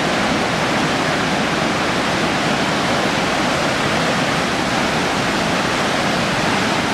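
Loud, steady rush of a large waterfall on the Little River, running high after heavy rainfall.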